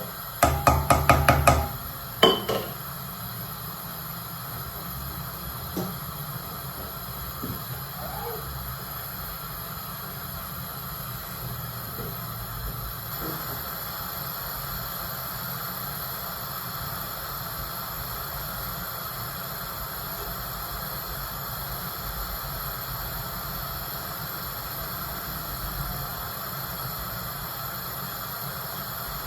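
A quick run of about eight sharp metallic knocks, a spoon rapped against the cooking pot, and one more a moment later, then a steady low hiss and hum with a few faint ticks while the soup heats toward the boil.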